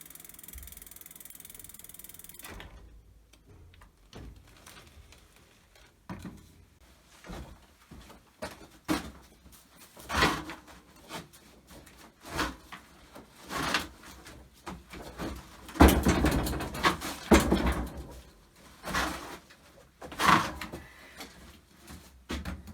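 Irregular mechanical clicks and knocks from handling bicycle parts, several louder ones in the second half, with a brief hiss in the first two seconds.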